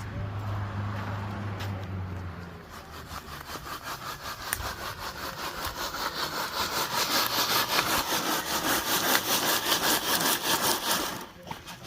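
Hand saw cutting through wood in quick, even back-and-forth strokes, about four a second, getting louder and then stopping about eleven seconds in. A low steady hum runs under the first two seconds.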